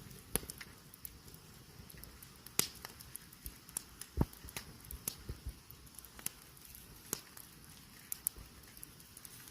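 Campfire crackling, with a low hiss and scattered sharp pops, while trout roast on a spit over it.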